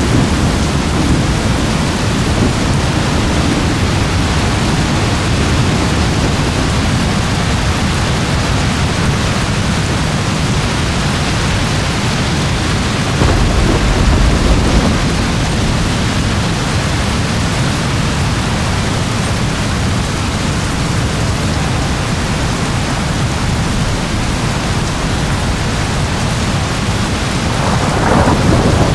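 Steady heavy rain with rolling thunder: a deep rumble swells up about halfway through and another builds near the end.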